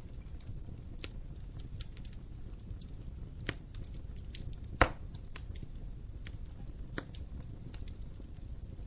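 Wood fire crackling in a fireplace: scattered sharp snaps over a low steady rumble, with one loud pop about five seconds in.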